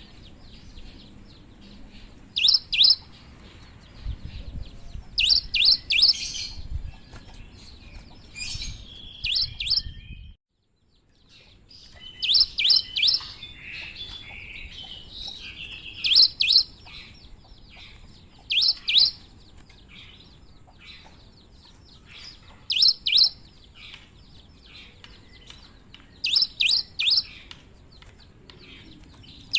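Cinereous tit (gelatik batu) calling: sharp, high notes in quick clusters of two or three, repeated every few seconds, over a faint steady high tone. The sound drops out to silence for about a second about ten seconds in.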